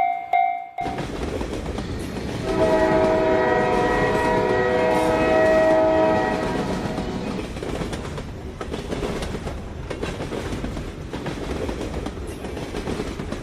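A train passing with a steady rushing rumble of wheels on track, and its horn sounding one multi-tone chord for about four seconds, starting a couple of seconds in. A railroad crossing bell rings at the very start and cuts off just under a second in.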